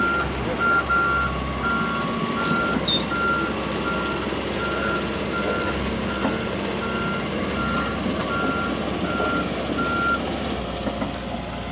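Heavy earthmoving machine's backup alarm beeping at an even pace, about one and a half beeps a second, over the machine's engine running; the beeping stops near the end.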